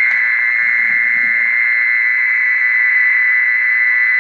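Recorded mole cricket call played loud and without a break through a speaker as a lure, one steady high trill.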